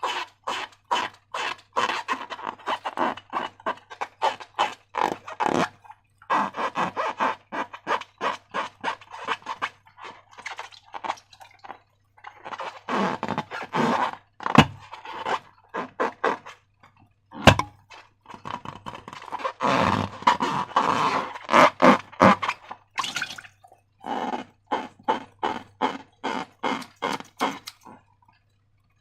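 Slime being squished and worked, a quick run of wet clicks and squelches several times a second that stops and starts, with one sharp click about 17 seconds in.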